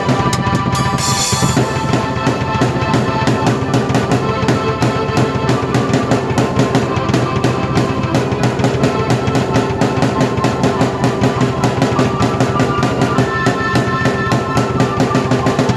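Drum kit and keyboard played together: fast, dense drumming under held keyboard chords, in a continuous loud passage.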